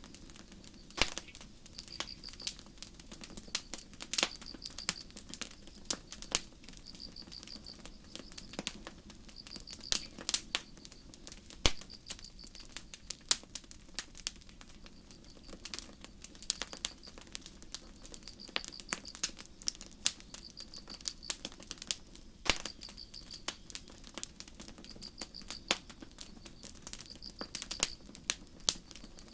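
Campfire wood crackling with irregular sharp pops over a low steady burning rumble, the loudest pops near the middle and about two-thirds through. Crickets chirp throughout in short pulsed trills every second or two.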